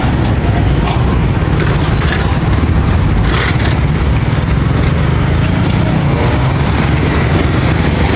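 Steady low rumble of a moving vehicle driving through town traffic.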